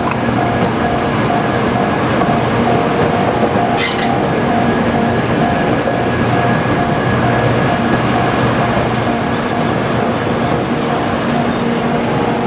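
Doctor Yellow 923 series Shinkansen inspection train running slowly through the works yard, a steady rumble with a sharp click about four seconds in. About two-thirds of the way through, high-pitched wheel squeal sets in.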